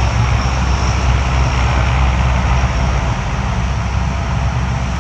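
Coast Guard Lockheed C-130 Hercules turboprop engines and propellers running in a loud, steady drone.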